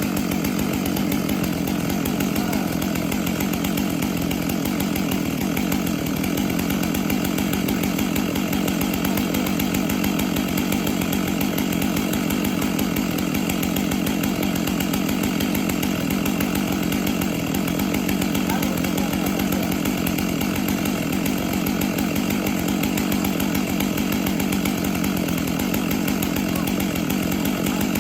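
Chainsaw running steadily and without a break, at an even pitch.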